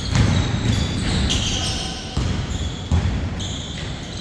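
Basketball game play: a basketball bouncing on the court in repeated thumps, with many short high-pitched sneaker squeaks over it.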